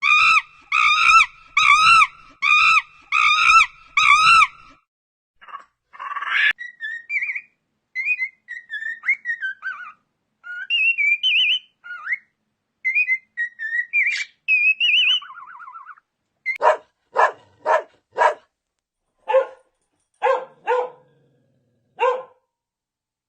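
A string of animal calls: six quick repeated high calls at the start, then chirping and warbling, then a dog barking about nine times in short sharp barks.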